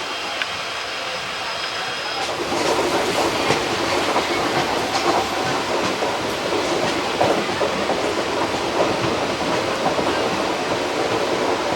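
ICF passenger coach running along the track: a steady rumble of wheels on rail with irregular clicks at rail joints, growing louder about two and a half seconds in.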